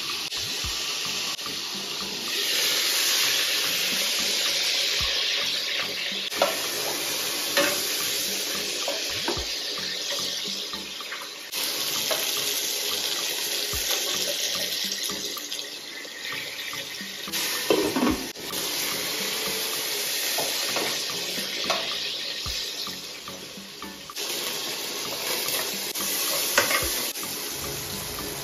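Chicken pieces searing in hot oil in a pot, giving a steady sizzling hiss, with a few knocks of a utensil against the pot.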